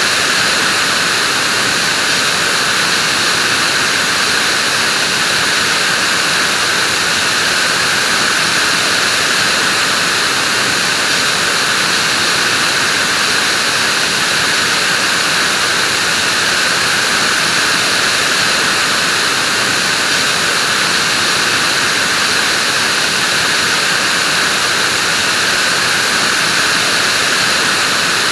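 Vacuum cleaner running steadily, a continuous hissing whoosh of motor and airflow with no change in pitch or level.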